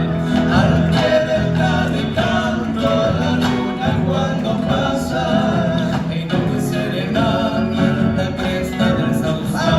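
Singing with acoustic guitar accompaniment: an Argentine folk zamba.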